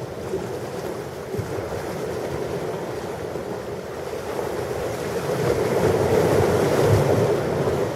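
Ocean surf: a continuous wash of breaking waves that swells louder about five seconds in and eases near the end.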